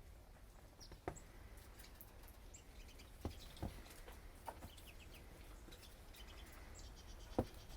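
Small birds chirping faintly and sporadically, with a few short, soft knocks scattered among the chirps.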